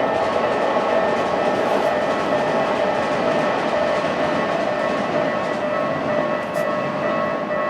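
Keikyu electric train running through a level crossing, a steady rumble of wheels on rails, while the crossing's warning bells ring continuously over it.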